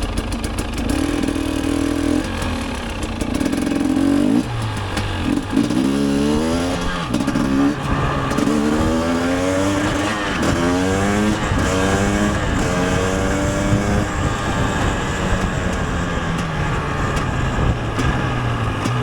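KTM 250 EXC single-cylinder two-stroke engine under way. It runs steadily at first, then revs up in a run of rising sweeps, each cut short by a drop in pitch as it shifts up through the gears, and near the end it eases off with the pitch slowly falling.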